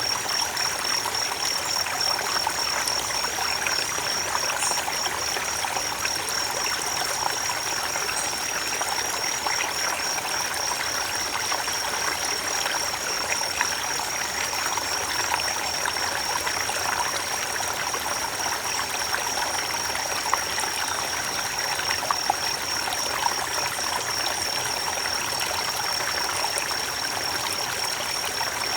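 A creek running steadily over stones, a continuous trickling rush of water. Over it sits a steady high-pitched pulsing tone.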